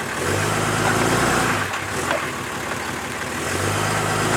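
Vehicle engine running, its low steady hum swelling for about a second near the start and again near the end.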